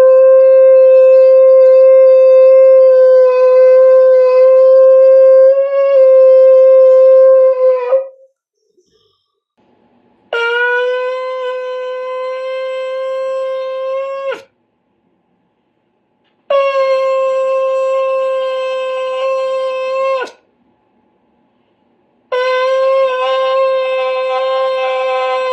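Shofar blown in one long held blast lasting about eight seconds. After a pause come three more separate blasts of about four seconds each, quieter and with a faint hum behind them.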